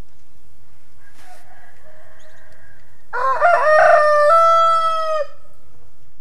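Rooster crowing once, about three seconds in: a few short rising notes, then a long held note.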